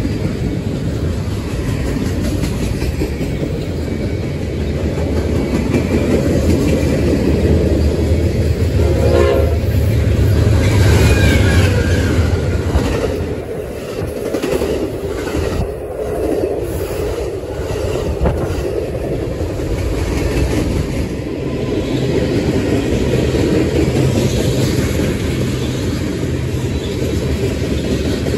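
Freight and passenger trains passing on adjacent tracks: continuous rolling wheel clatter of freight cars, with an Amtrak passenger train going by close on the near track. A train horn sounds briefly about nine seconds in, and a heavy locomotive rumble is loudest from about nine to thirteen seconds before the bilevel passenger cars roll past.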